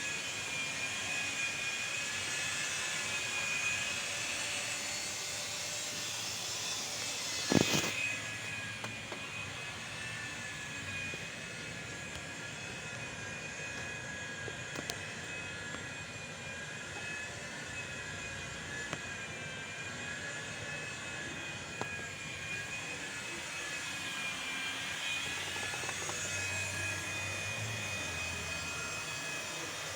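Diesel engine of a Hyundai Santa Fe idling, a steady running sound with a high, slightly wavering whine over it. A single sharp knock comes about a quarter of the way in.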